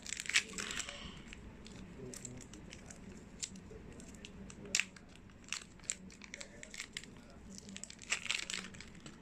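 Plastic slime-kit packets crinkling and tearing as they are opened and handled, in scattered short crackles with a few sharper clicks.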